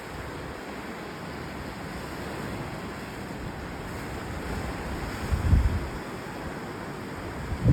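Ocean surf washing steadily onto the shore. Wind buffets the microphone in low rumbles about five and a half seconds in and again at the end.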